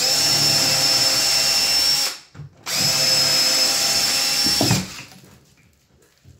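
Power drill running in two steady, even-pitched runs of about two seconds each with a short pause between, the second winding down at its end; typical of driving screws while installing cabinets.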